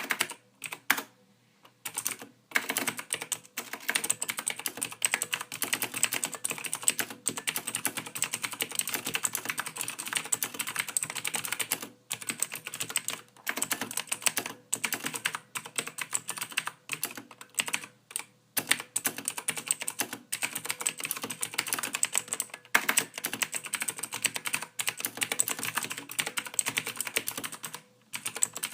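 Computer keyboard being typed on continuously, rapid keystrokes clattering with a few short pauses.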